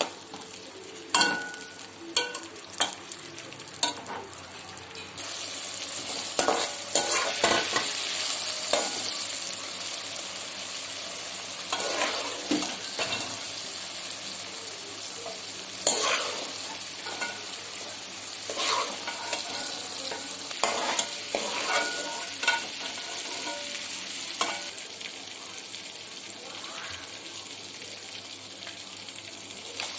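Diced green bell peppers sizzling in hot oil in an aluminium wok, stirred and scooped with metal utensils that scrape and knock against the pan now and then. The sizzle eases near the end once the peppers are lifted out and only oil is left.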